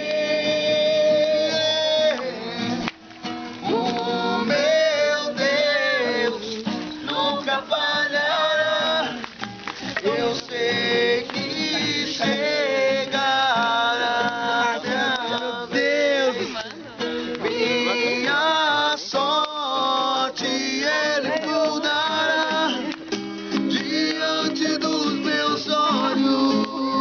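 Acoustic guitar strummed while a group sings a Portuguese worship song.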